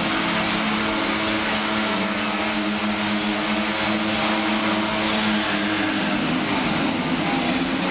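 Stunt vehicle engine running at steady high revs, holding one pitch for about five seconds before the pitch shifts.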